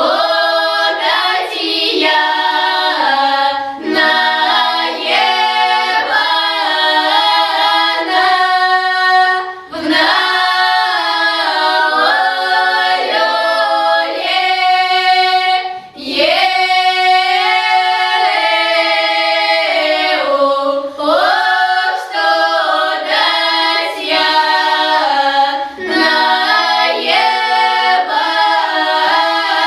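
Children's folk choir singing a Russian folk song in unaccompanied parts, the phrases pausing briefly every few seconds.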